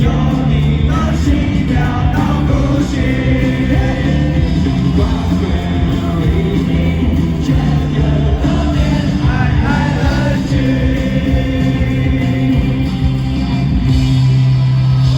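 A live pop-rock band playing loudly, with singing over full band accompaniment.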